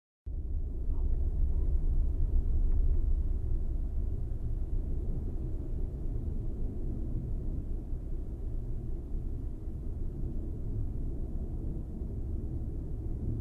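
Deep, low rumble of rolling thunder that swells over the first few seconds, then settles into a steady roll.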